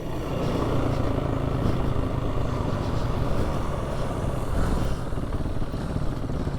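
A four-wheel drive's engine running steadily under load as it drives along a sand track, a low drone mixed with rumble and rattle from the vehicle.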